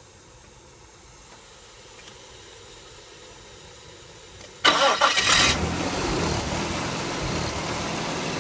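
1998 Nissan Pathfinder engine being started: after a few quiet seconds the starter cranks briefly, about four and a half seconds in, and the engine catches and settles into a steady idle.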